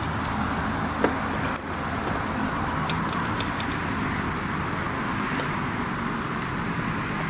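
Wood campfire burning with a few sharp crackles and pops over a steady rushing hiss. A low hum sits under it and fades out about two seconds in.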